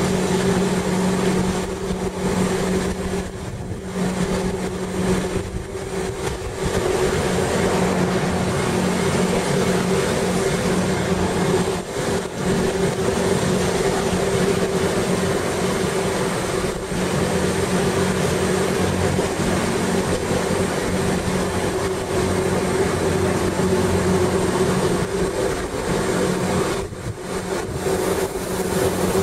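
Inside a Gornergratbahn electric rack-railway train running downhill: a steady hum from the drive over a continuous rumble of wheels and rack, dipping briefly a few times.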